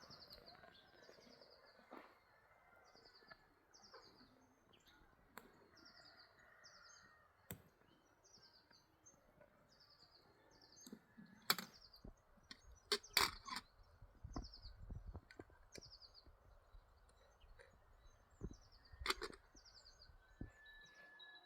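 A small bird calling over and over, one short falling chirp about every three-quarters of a second. A few sharp knocks come through about halfway and again near the end.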